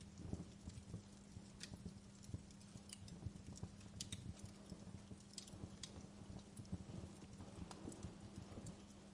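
Fireplace fire crackling: irregular sharp pops and snaps, several a second, at a low level over a faint steady hum.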